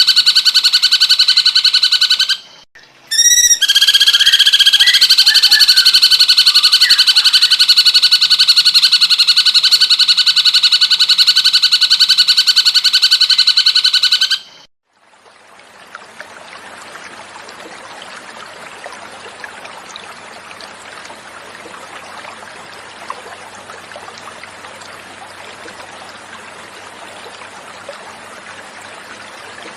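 Recorded cucak cungkok song: a loud, continuous, rapid buzzing trill, broken once briefly, that cuts off about halfway through. After a moment of silence, naturally flowing water starts and keeps running steadily and more quietly.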